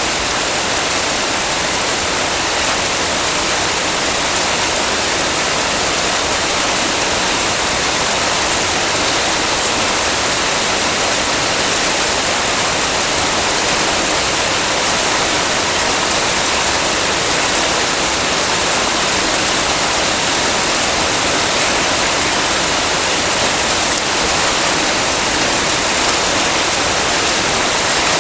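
Heavy rain falling: a steady, dense hiss with no separate drops or thunder standing out.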